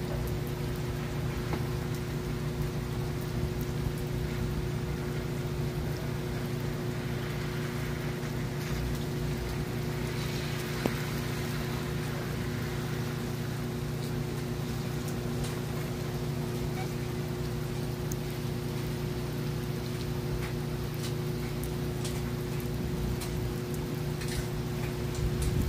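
Steady rain falling, with scattered drops ticking close by, over a steady low hum.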